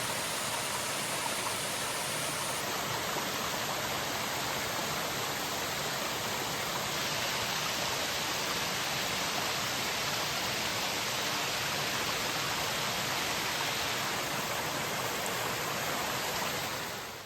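Rushing water of a mountain stream's cascades, a steady, even roar with no change until it cuts off at the end.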